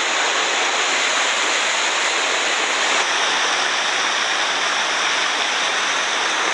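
A waterfall's water pouring and crashing, a steady rushing roar close to the microphone.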